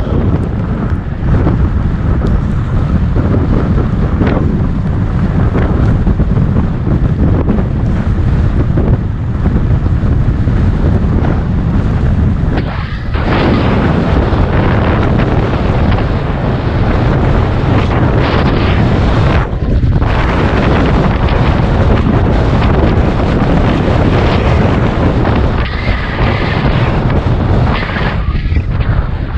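Loud, steady wind buffeting the microphone of a camera riding along on a moving bicycle.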